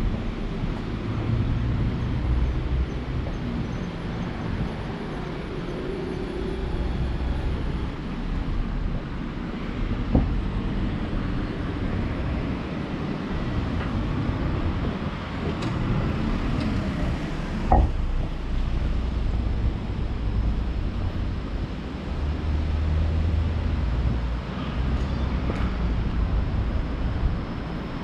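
Low, steady rumble of passing vehicle traffic that swells and fades, with a sharp knock about a third of the way in and a louder one a little past the middle.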